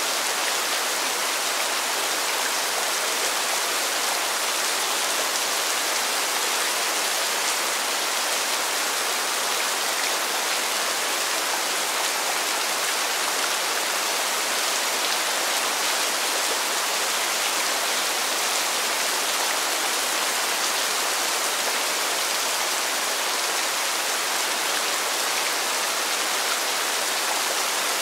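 Steady rainfall, an even, unbroken hiss with no separate drips or thunder.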